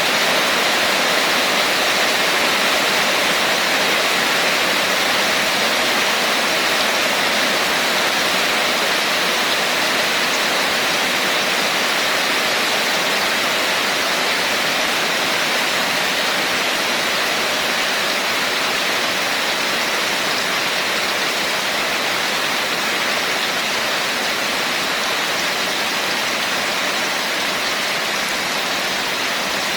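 Steady rain falling, an even hiss without distinct drops, gusts or thunder.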